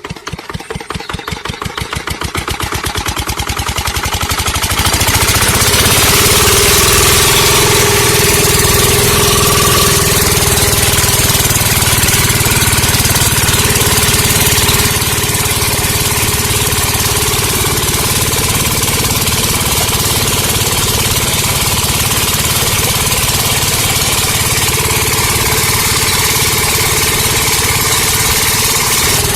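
Small motor driving a miniature water pump starts up with a rhythmic chugging that speeds up and grows louder over about five seconds, then runs steadily with a loud hiss on top.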